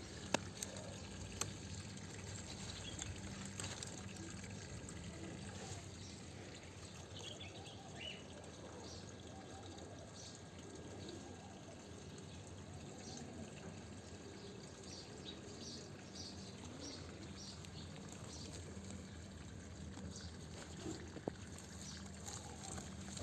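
Water trickling and pouring steadily, with a few sharp clicks in the first second or two.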